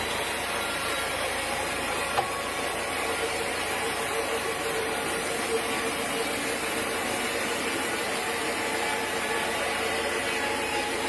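Sawmill machinery running steadily, a constant mechanical hum and hiss with a faint steady tone, and one short click about two seconds in.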